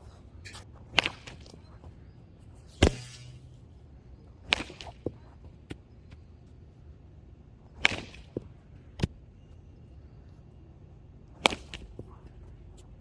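Baseball bats striking pitched balls: six sharp cracks spaced two to three seconds apart, some followed by smaller knocks.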